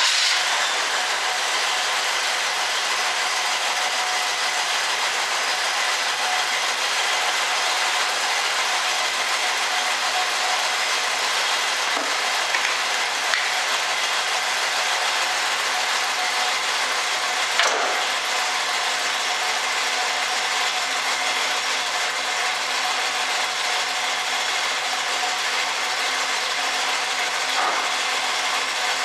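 A 1967 Chevrolet Camaro on a test drive after a brake job: steady engine and road noise, with a few faint clicks.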